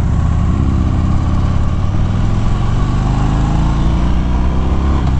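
Harley-Davidson Fat Bob V-twin accelerating hard to overtake, its engine note climbing steadily, with wind rushing over the helmet microphone.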